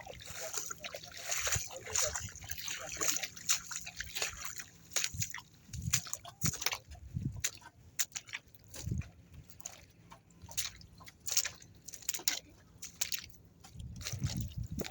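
Water and mud sloshing and splashing in irregular bursts, with a faint steady low hum underneath.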